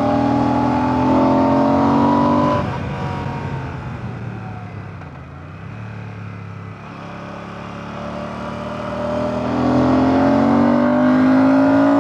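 Royal Enfield Classic 650's 648cc air/oil-cooled parallel-twin engine under way, pulling with a rising pitch before the throttle closes about two and a half seconds in. It runs quieter at lower revs, then pulls again with a rising pitch from about eight seconds in.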